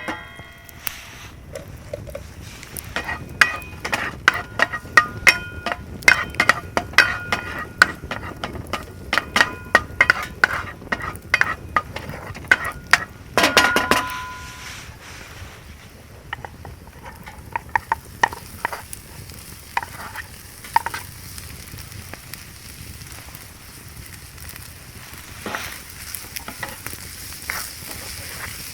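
A metal utensil repeatedly clinking and scraping in an iron frying pan as food is stirred, with sizzling underneath. The clinks come thick and fast for the first half, then give way to mostly steady sizzling with only a few taps.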